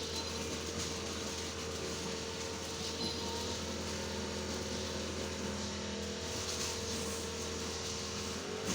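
A motor or engine running steadily: a constant low hum over an even hiss, unchanging throughout.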